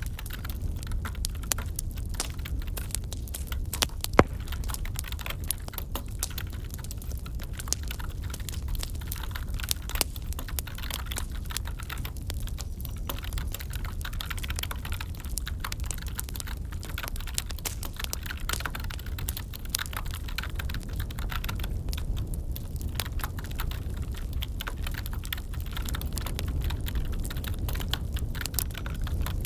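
Wood fire crackling in a fireplace: a steady low rumble with irregular pops and snaps, one sharper pop about four seconds in, mixed with the soft clicking of computer-keyboard typing.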